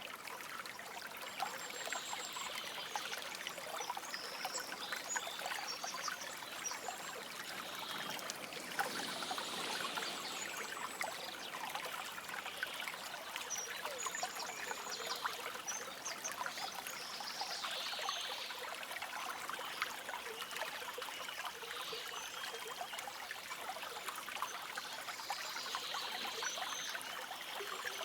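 A shallow stream trickling and babbling steadily over stones, with short high bird chirps every few seconds.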